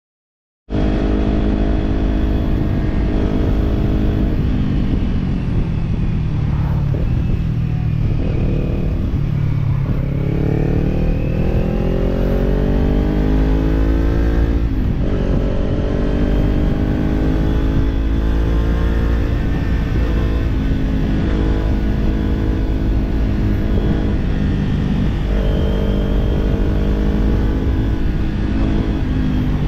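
Kawasaki parallel-twin sport motorcycle with a slip-on aftermarket exhaust, running under way and cutting in abruptly under a second in. The engine note drops as the bike slows, then rises as it accelerates, breaks briefly at a gear change about halfway, and rises again near the end.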